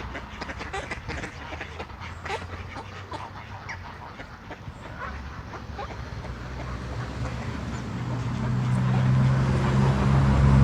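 Ducks quacking on a pond, short scattered calls through the first half. From about halfway a low, steady engine-like drone grows louder until it is the loudest sound near the end.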